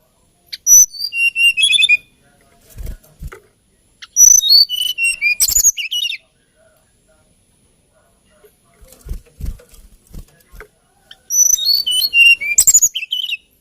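Hill blue flycatcher singing three lilting phrases of clear, high whistled notes, each a quick run that steps down in pitch. A few soft low thumps come between the phrases.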